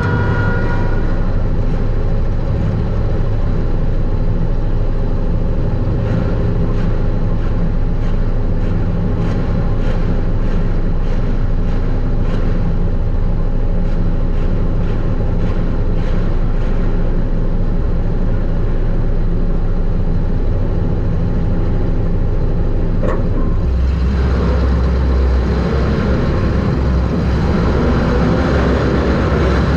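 Super stock race car engine running hard under racing load, heard from inside the car, with steady drivetrain and chassis noise. The low engine note grows louder about three-quarters of the way through.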